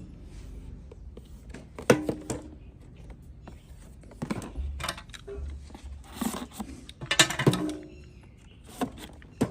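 Irregular knocks and clatter of handled objects, a few seconds apart, with a couple of brief voice sounds in the second half.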